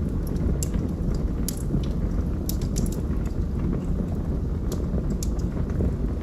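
Log fire burning, with a steady low rumble and frequent sharp, irregular crackles and pops from the burning wood.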